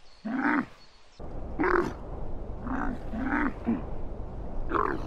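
Dromedary camels calling: about six short calls, each rising and falling in pitch, spread over the five seconds. A steady low rumble runs under them from about a second in.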